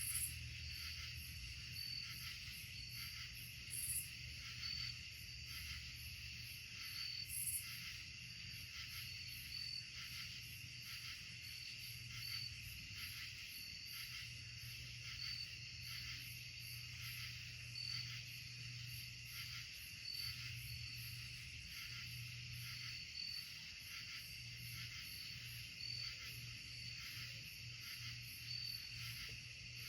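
Night chorus of insects chirping steadily, with one high chirp repeating about once a second over a continuous trill, and a faint low hum beneath.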